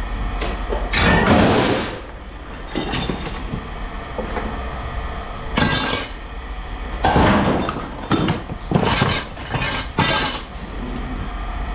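Pieces of scrap metal clanking and clattering as they are handled and tossed into bins, in irregular bursts of impacts over a steady low rumble.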